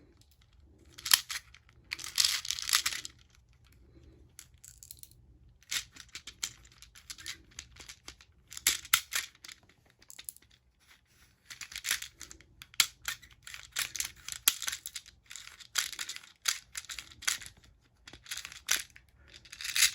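Plastic airsoft BB speed loader being plunged into a Sig Sauer ProForce M17 airsoft pistol magazine: irregular bursts of clicking and rattling as the BBs are pushed in, with short pauses between strokes.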